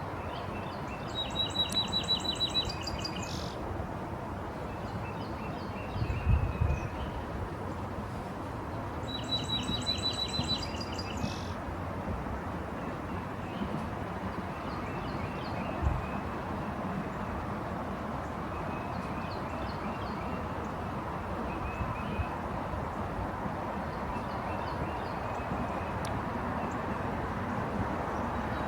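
A songbird singing two rapid trilled phrases of about two seconds each, the first near the start and the second about nine seconds in, with faint chirps repeating between them over steady background noise. A couple of brief low thumps come about six and sixteen seconds in.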